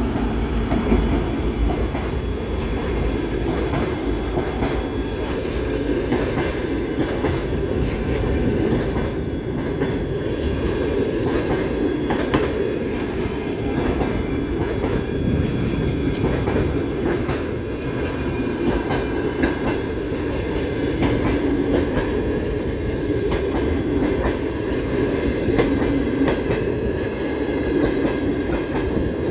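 A passenger train rolling past close by. The rear section of a 2M62U diesel locomotive goes by at first, then a string of coaches follows, their wheels clacking over the rail joints in a steady run of clicks over a low rumble.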